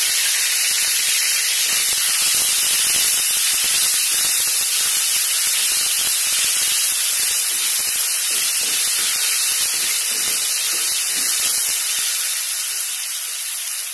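Split chana dal sizzling steadily as it fries in hot oil in a steel kadai, with a spatula stirring it partway through. The sizzle eases a little near the end.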